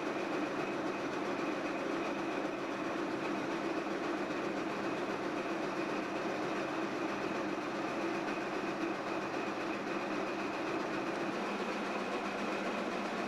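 Diesel switching locomotive with a remanufactured Caterpillar engine running steadily at idle.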